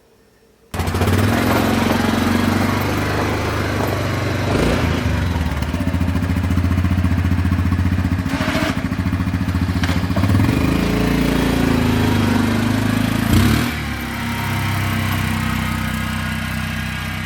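Four-wheeler (ATV) engine running, starting suddenly about a second in and shifting up and down in pitch a couple of times past the middle.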